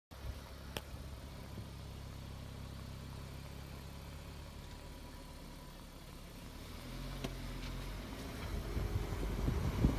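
Car engine running with a low, steady hum. About seven seconds in the note shifts, and over the last couple of seconds a low rumble of road and wind noise builds as the car gets moving.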